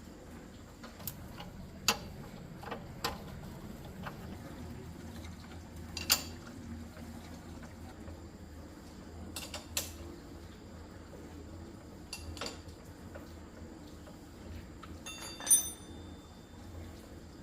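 Scattered light metallic clinks and taps of tools and bicycle parts being handled during a repair, about ten over the stretch, the loudest about 6 seconds in and again near the end. A steady low hum runs under them.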